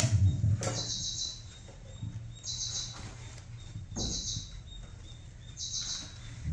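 A bird chirping in short, quick high trills, about one every second and a half, over a low hum and a few sharp knocks.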